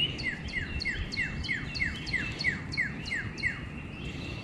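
A songbird singing: a rising whistle, then a rapid run of about a dozen quick whistled notes, each sliding down in pitch, about three a second. The run stops about three and a half seconds in.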